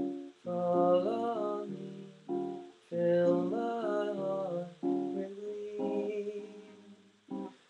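Guitar playing a slow, jazzy progression of major- and minor-seventh chords, each chord struck and left to ring, with a brief pause near the end.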